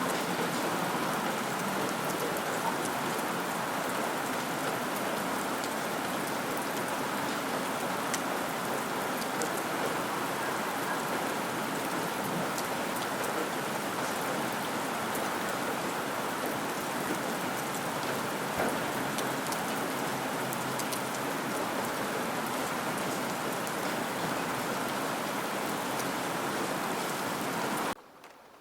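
Steady heavy rain falling, an even hiss with scattered individual drops ticking. It cuts off suddenly near the end.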